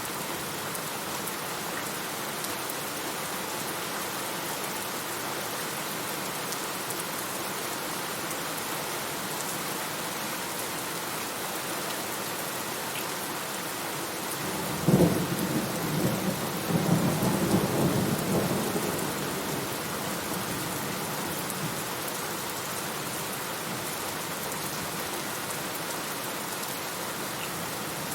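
Steady rain falling throughout, with a sudden thunderclap about halfway through that rolls on as rumbling thunder for several seconds before fading back into the rain.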